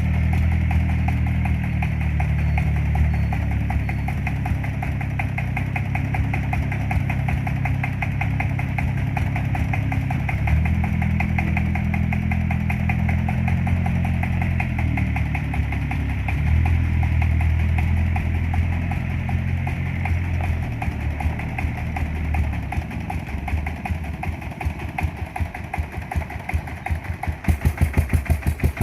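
An engine running with a fast, even pulsing beat whose low pitch shifts now and then. Over the last few seconds it slows into separate, distinct pulses.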